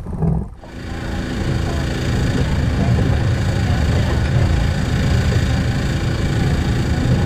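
Steady low motor drone with several fixed humming tones. It starts after a brief dip about half a second in.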